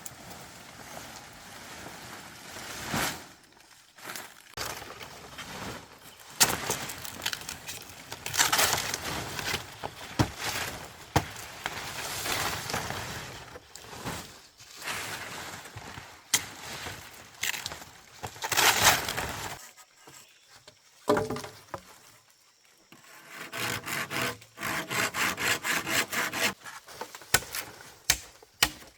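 Bamboo being worked by hand: a string of knocks, cracking and scraping. It goes nearly quiet for a moment about two-thirds of the way through, then comes a quick run of even taps, several a second.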